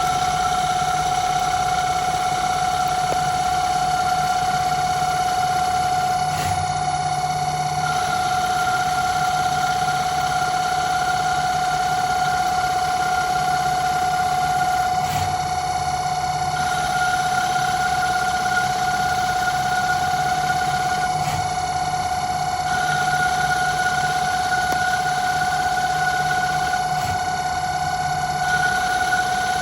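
Home-built CNC lathe running with a steady motor whine. A second, higher tone steps up slightly every several seconds, and a low hum cuts in and out.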